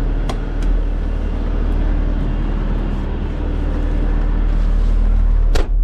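Truck engine running steadily, a low, even drone with a few faint clicks.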